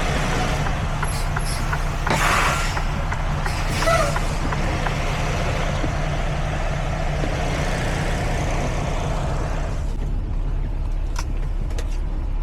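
Semi-truck diesel engine running steadily at low speed while backing into a dock, with a loud hiss of air from the air brakes about two seconds in and a smaller one a couple of seconds later. A few sharp clicks come near the end.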